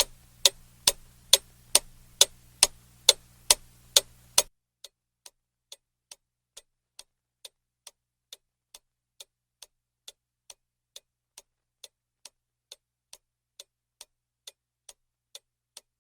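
Steady ticking, a little more than two ticks a second. The ticks are loud over a low hum for the first few seconds, then drop to quieter, clean ticks once the hum stops.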